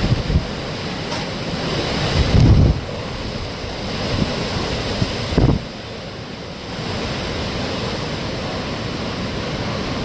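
Storm wind rushing steadily, with gusts buffeting the microphone in low rumbles about two and a half and five and a half seconds in.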